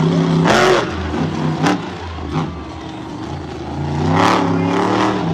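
Monster truck engine revving hard in bursts: a sharp rev about half a second in, lower running and short blips through the middle, and another climbing rev near the end, with a brief clack in between.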